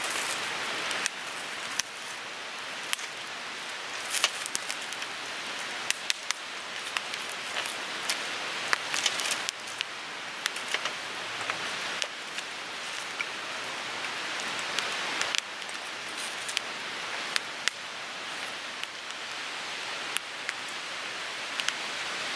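Wood fire burning with a steady hiss and frequent sharp crackles and pops.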